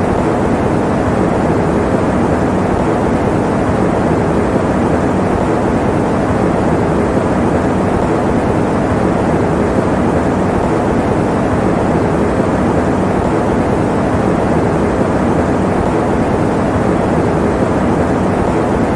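Electric fan running steadily: an even, unchanging rush of air noise, deep and full with little high hiss.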